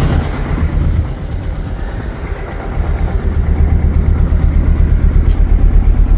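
2000 Chevy S-10's four-cylinder engine idling rough with a bad miss, its beat pulsing unevenly and growing louder about halfway through. The mechanic guesses that oil smoke from a greatly overfilled crankcase has fouled a spark plug.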